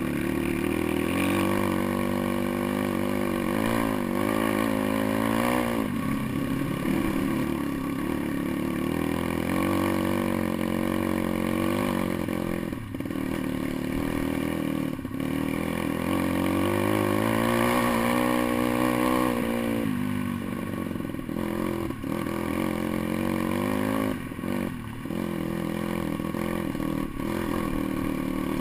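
Pit bike's small single-cylinder engine ridden off-road, revving up and down with the throttle so its pitch keeps rising and falling. It backs off briefly a few times.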